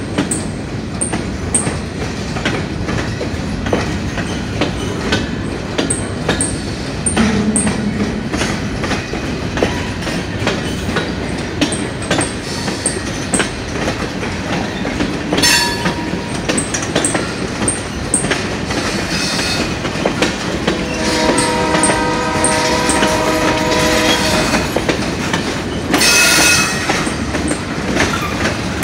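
Freight cars, covered hoppers and tank cars, rolling past close by with wheels clicking over the rail joints in a steady rhythm. Near the end the GP38 locomotives' multi-note air horn sounds for a few seconds from the head of the train, followed by a brief loud screech.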